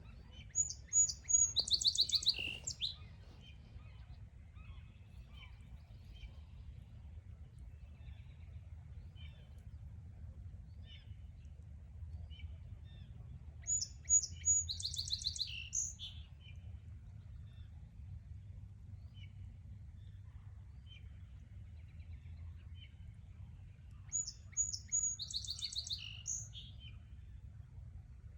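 A songbird singing the same short song three times, about ten seconds apart: a few quick high notes, then a buzzy trill. Fainter bird chirps come in between.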